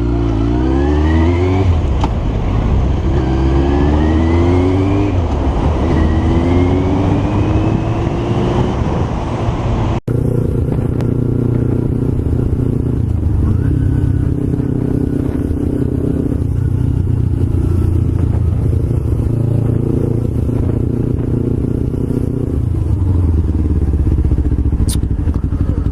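Motorcycle pulling away and accelerating through the gears: the engine note rises three times, dropping back at each upshift. After a sudden cut about ten seconds in, a motorcycle engine runs at fairly steady speeds, its note changing in small steps.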